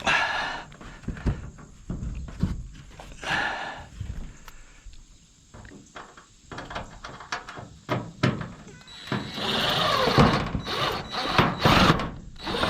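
A power drill driving a screw into metal roofing: short bursts near the start and about three seconds in, then a longer run with a high whine near the end, between knocks on the metal panel. The screw does not seat well.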